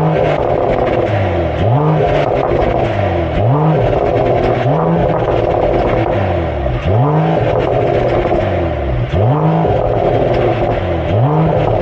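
2022 Mercedes-AMG E53's 3.0-litre inline-six on its stock exhaust, catalytic converters still in place, revved repeatedly in place. Each short rev rises and falls in pitch, about one every two seconds, over the running engine.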